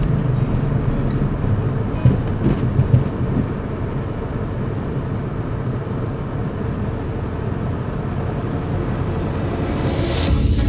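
Steady road and engine noise inside a moving car, picked up by the dashcam's own microphone, with a few brief knocks about two to three seconds in. Music starts right at the end.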